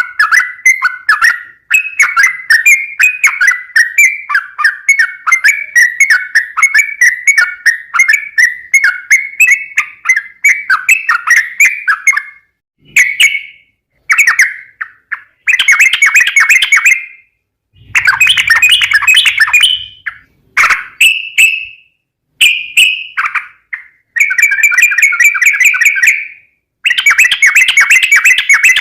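Yellow-vented bulbul (trucukan) singing: rapid, bubbly chattering notes, unbroken for about twelve seconds, then in separate phrases of one to three seconds with short pauses between.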